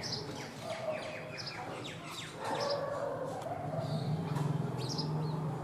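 House sparrows chirping: a busy run of short, quick calls. A steady low hum comes in about halfway through.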